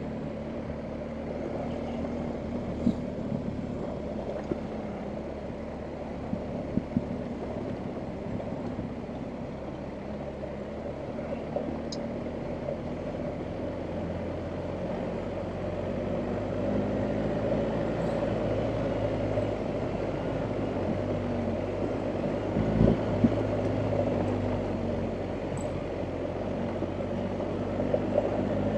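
BMW R1250GS Adventure's boxer twin engine running at low revs over rough ground, the pitch shifting and getting a little louder about halfway through, with a few short knocks.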